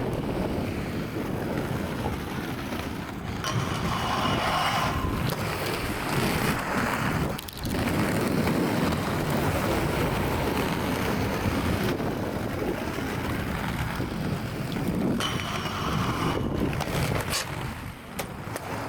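Wind buffeting the microphone, a steady rumbling hiss that briefly dips about seven and a half seconds in. A short higher squeal sounds twice, about four and about sixteen seconds in.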